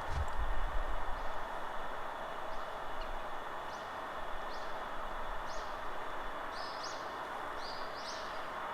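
Steady forest wind with a low rumble in the first second or so, and a small songbird giving short, high chirps that come more and more often toward the end.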